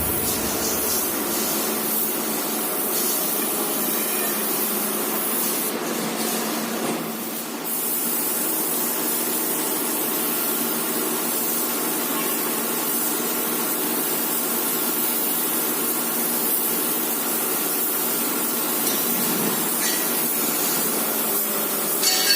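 Pneumatic spray gun hissing steadily as paint is sprayed onto a bus bumper, with a brief let-up about seven seconds in.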